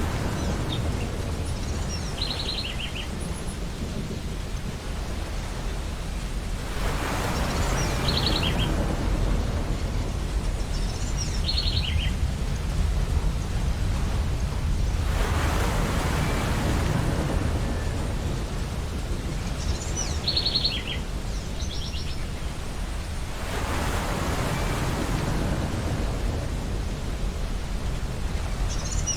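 Ocean waves breaking on a beach, a wash of surf swelling about every eight seconds over a constant low rumble, with short high bird calls several times.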